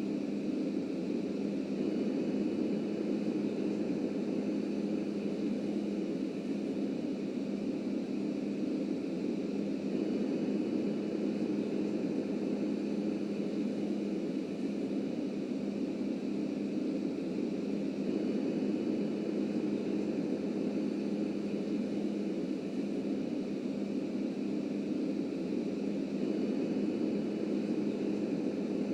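Subway train running along the track: a steady rumble with a low hum and a faint high whine that comes and goes.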